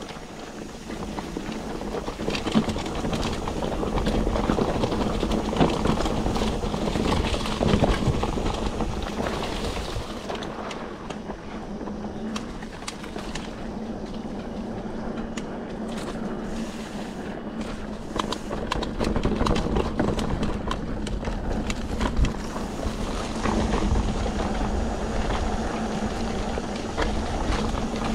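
Mountain bike riding a rough dirt trail: tyres on loose ground and the bike rattling over bumps, with many sharp clicks and knocks throughout.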